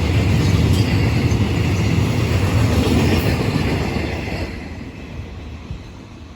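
Passenger train rolling past, a loud rumble of wheels on rail that fades away about four to five seconds in as the train moves off.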